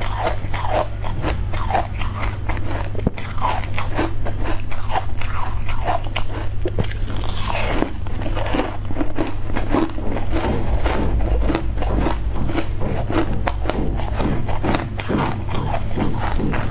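Close-miked chewing and mouth sounds of a person eating a piece of white cake: a dense, irregular stream of small wet clicks as she bites and chews. A steady low electrical hum runs underneath.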